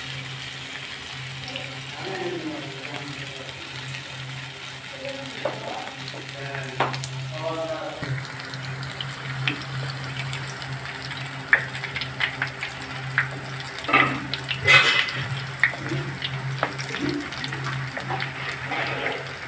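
Pakora fritters of chana-dal batter and goat brain sizzling steadily in shallow oil in a pan over a low flame. From about halfway through, a wooden spatula scrapes and clicks against the pan as the fritters are pushed and turned.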